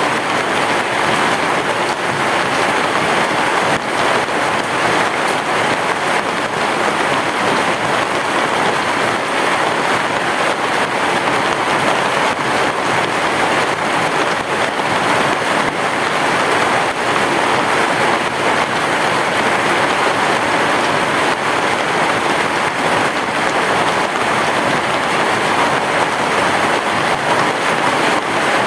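Heavy rain pouring steadily: a dense, even hiss of countless drops.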